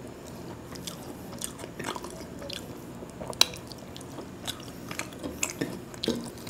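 A person chewing a mouthful of khichuri (soft rice and lentils) close to the microphone, with scattered wet mouth clicks and smacks; the sharpest click comes about three and a half seconds in.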